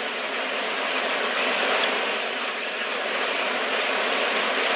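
An insect chirping in a fast, regular rhythm, about five short high-pitched chirps a second, over an even background hiss.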